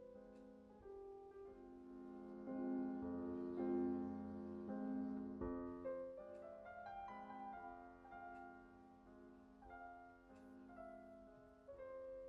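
Soft background piano music, slow held notes and chords.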